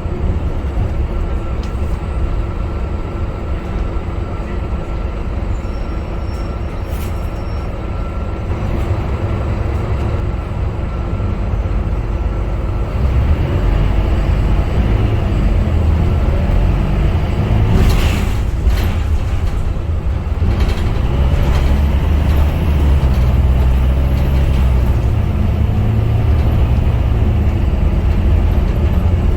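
Scania K250UB city bus's diesel engine running under way, heard from inside the cabin. It is steady at first and grows louder about halfway through as the bus pulls harder. A short hissing burst comes a little past the middle.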